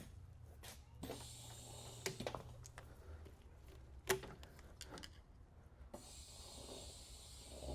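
Faint workshop background: a steady low hum with a few scattered light clicks and knocks, the sharpest about four seconds in.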